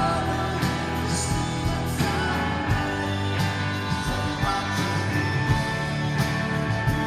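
Live rock band playing a song, with electric guitars, bass and drums keeping a steady beat.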